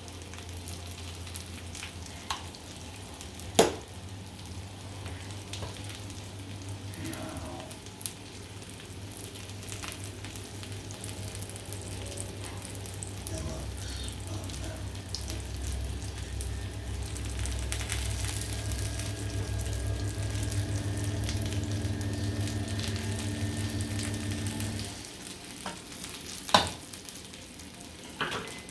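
Chopped onion and garlic sizzling in hot oil in a frying pan, stirred now and then. A steady low hum runs underneath and stops a few seconds before the end, and two sharp knocks stand out, one about four seconds in and one near the end.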